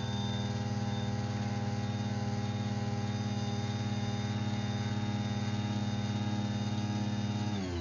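Craftsman CMXEOCG773 garage door opener motor running steadily as it drives the door open. About seven and a half seconds in, its pitch drops as the motor slows down.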